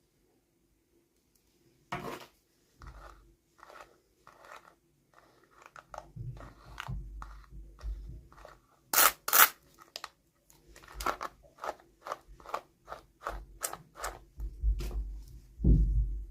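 Hands opening and handling plastic toy packaging: an irregular run of crinkles, clicks and snips with soft low thuds, starting about two seconds in after near silence.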